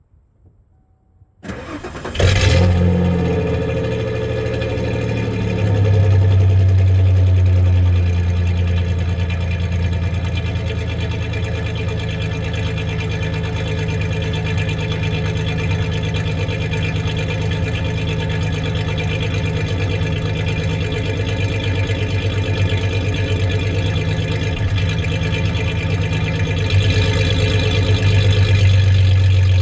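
1993 Ford Ranger's 3.0 L Vulcan V6 cranking and starting about two seconds in, then idling steadily, its idle rising a little for a couple of seconds and again near the end. The engine has a misfiring cylinder.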